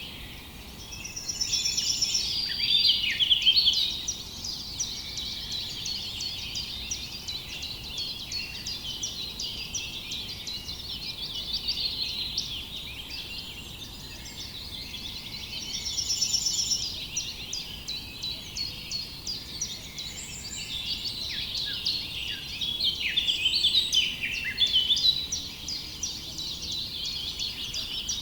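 Birdsong chorus: several birds chirping and trilling over one another without pause, swelling louder a few seconds in, around the middle and again near the end.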